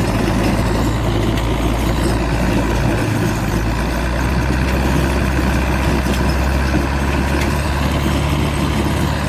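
Ursus C360 tractor's diesel engine running steadily while it pulls a car out of a frozen hole.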